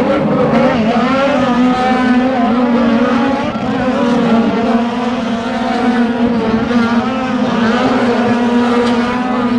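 Trophy truck's engine running loud and steady, its pitch wavering slightly up and down.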